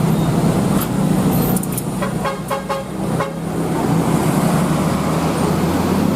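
Engines of vehicles in slow, jammed road traffic running steadily, with a vehicle horn giving a quick series of about five short beeps around two seconds in.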